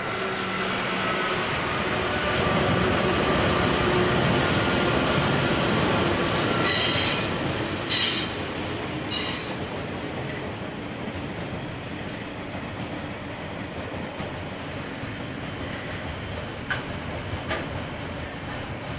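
A KiwiRail diesel train passing. The locomotive's engine hum builds into a loud rolling rumble of wheels on rails. Three short screeches of wheel squeal come about seven to nine seconds in, and the rumble then settles lower as the rest of the train rolls by.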